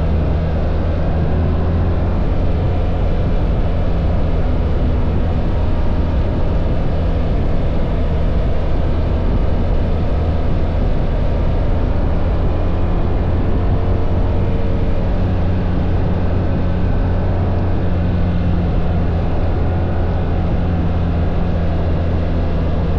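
BMW R1300 GS's boxer twin engine running at a steady cruise, with wind and road noise, holding an even, unchanging hum.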